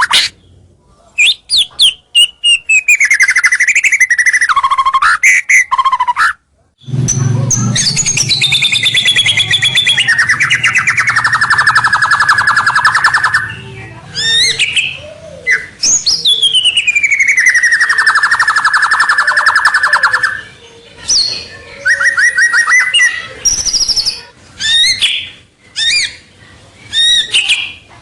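White-rumped shama singing a loud, varied song of sharp whistled notes and falling sweeps, with two long rapid trilling phrases in the middle. This is the energetic song used as a lure call to draw rival shamas.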